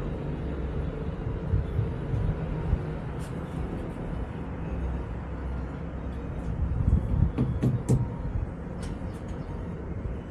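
Vario LF2R.E tram and its LFR.E trailer running along the track, heard from on board: a steady low rumble of wheels on rail, with sharp clicks and knocks clustering about seven to eight seconds in.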